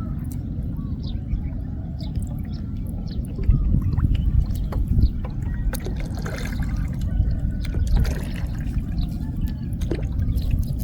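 Water dripping and splashing off a gill net as it is hauled in by hand from a flooded field, over a steady low rumble.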